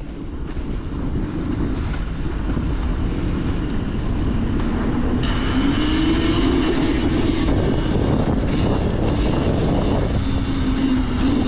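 KTM 300 XC TBI two-stroke dirt bike engine running under load while being ridden. It gets louder over the first few seconds, and its pitch rises about five seconds in, then eases off a little.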